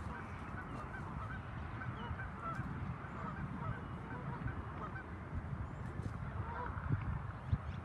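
A flock of geese honking, with many short calls overlapping throughout, over a low rumble.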